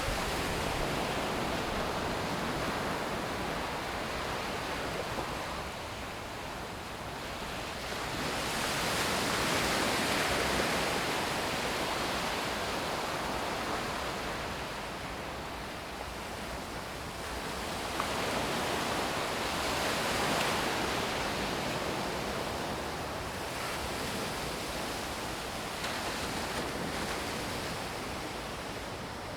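Sea surf washing onto a beach, a steady rush that swells louder twice, about a third of the way in and again about two-thirds in.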